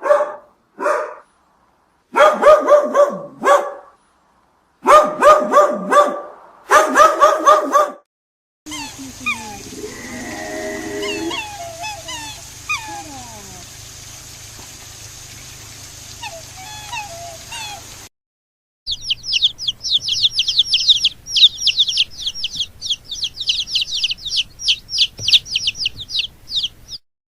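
Sequence of animal sounds: first a dog barking, in single barks and then quick runs. Then a mix of bird calls over a background hiss, then a fast run of high-pitched chirps.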